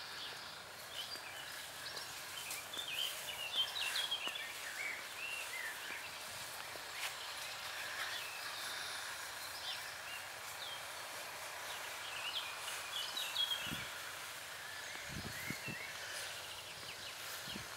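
Birds chirping and singing in short, quick phrases over a steady outdoor hiss, with a few low thumps in the last few seconds.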